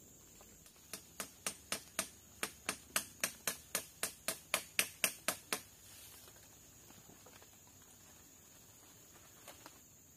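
A run of about eighteen sharp knocks or clicks, about four a second, growing louder over some five seconds, then two faint clicks near the end.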